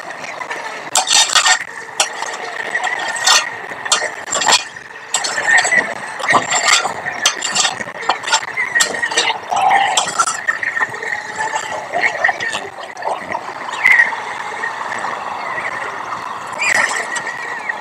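Activity on a white stork nest: irregular sharp knocks and clicks against the nest, with small chirping calls running through.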